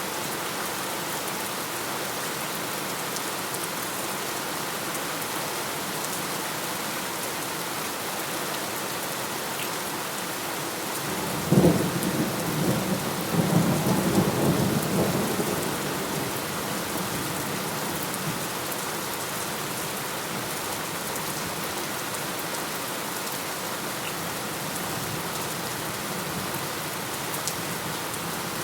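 Steady rainfall on surfaces, with a clap of thunder about eleven seconds in that cracks sharply and rumbles on for a few seconds before fading back into the rain.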